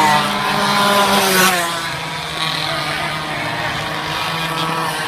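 Several minibike engines racing, their high engine notes sliding slowly down in pitch as they pass.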